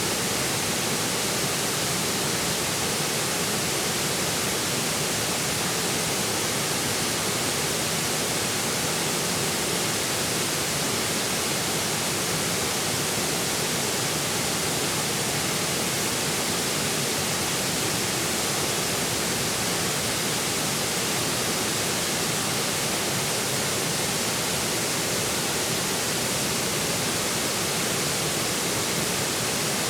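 A forest river flowing, its water rushing in a steady, unbroken hiss with nothing else standing out.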